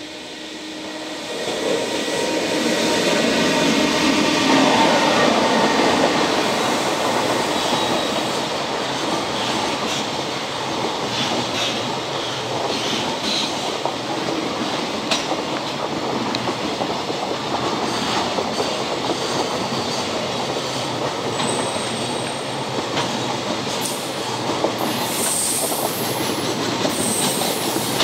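Freight train passing close by: the EF210 electric locomotive goes by first, loudest about four seconds in, with a pitched hum over the rumble. Then a long string of container wagons rolls past with a steady rumble and wheel clatter, and short high wheel squeals near the end.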